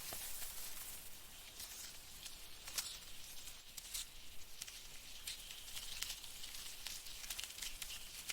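Faint forest ambience: a steady high hiss with scattered crackles and ticks.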